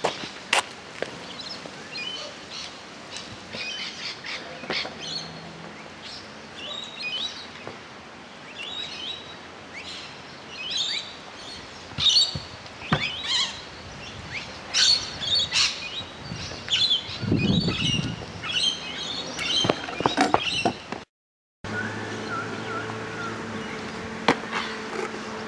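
Birds chirping and calling over and over, with now and then the sharp clack of a stunt scooter's wheels and deck landing on asphalt. Near the end a steady low hum comes in under the chirps.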